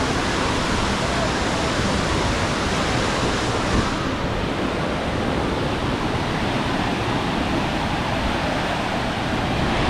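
Steady rushing of falling water, an even noise with no rhythm or breaks.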